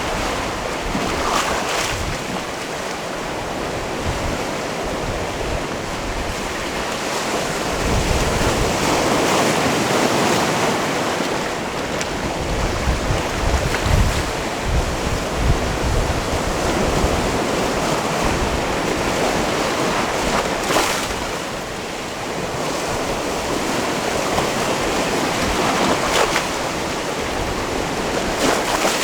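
Sea waves washing against a rocky shore: a continuous wash of surf that swells louder for a few seconds at a time. Wind rumbles on the microphone underneath.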